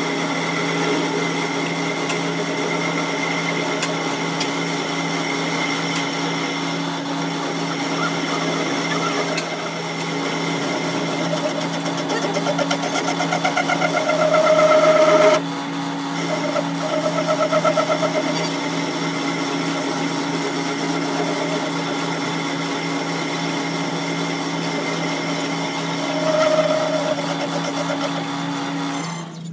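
An electric workshop machine running steadily, a constant hum with several held tones. About halfway through, a higher whine swells for a few seconds and cuts off suddenly; shorter swells come a couple of seconds later and again near the end, and the running stops right at the end.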